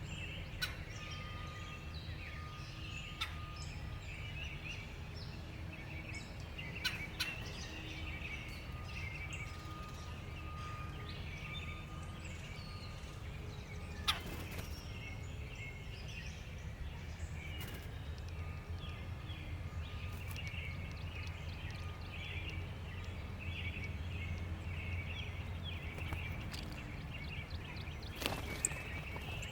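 Many small songbirds chirping around a backyard feeder, over a steady low background rumble. A few sharp clicks stand out, the clearest about halfway through and near the end.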